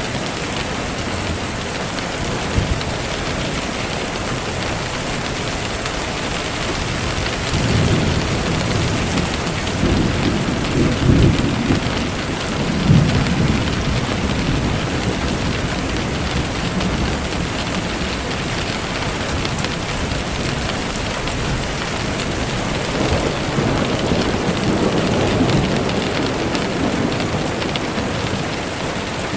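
Steady rain falling, with low thunder rolling twice: a long rumble building from about a quarter of the way in, and a second, softer one later on.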